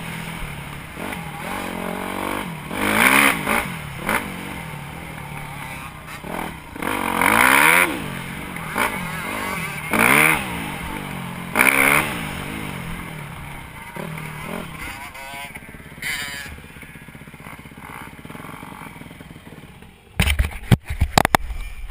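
Dirt bike engine revving up and down over and over, with loud peaks every couple of seconds, then fading away. Near the end there is a short burst of loud crackling.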